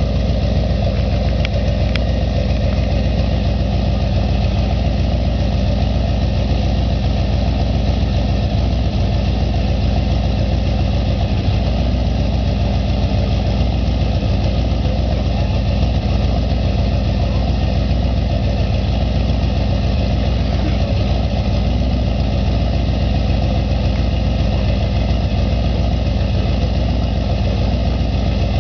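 1971 Dodge Charger's engine idling steadily, a deep even rumble with no revving.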